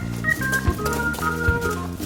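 Background music: an organ-led tune of held chords and a short-note melody over a steady beat.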